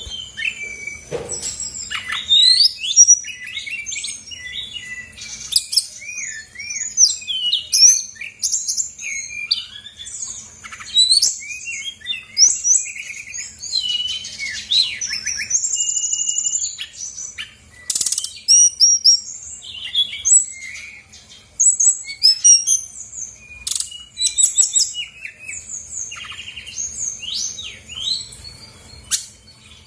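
Brown-chested jungle flycatcher singing a fast, varied song of whistles, trills and chirps with hardly a pause. It is a lure song, used to get other birds of its kind to answer.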